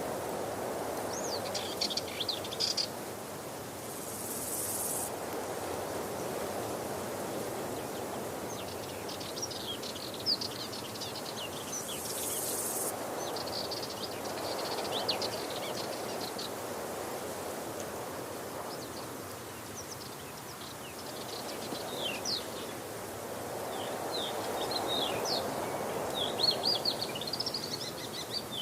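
Waterfall's steady rush of falling water, swelling and easing slowly, with small birds chirping in quick twittering runs at intervals.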